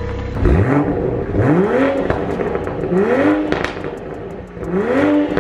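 2021 Toyota Supra 3.0's turbocharged inline-six on its stock exhaust, fired up about half a second in and then revved three times, each rev climbing in pitch and dropping back.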